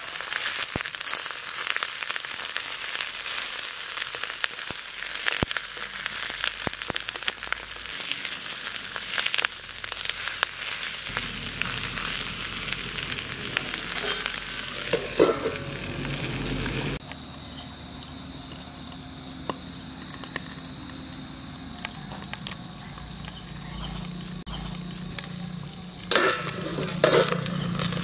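Banana-leaf-wrapped fish parcels frying in hot mustard oil in a wok: a steady sizzle with many small crackles. About two-thirds of the way through it drops abruptly to a much quieter, muffled sizzle, and a few louder knocks come near the end.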